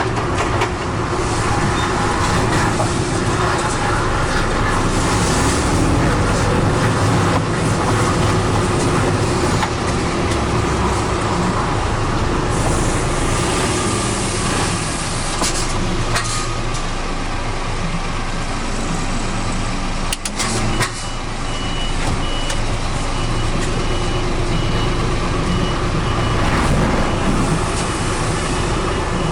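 Heavy truck's diesel engine running steadily, heard from inside the cab. About two-thirds of the way through, a high, evenly pulsing beep joins it, like a reversing alarm.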